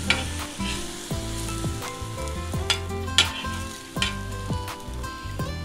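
Buttered bread sandwich sizzling as it fries on a cast-iron tawa, just turned over. A few sharp clicks of the spatula against the pan come through, the loudest near the start and around three seconds in.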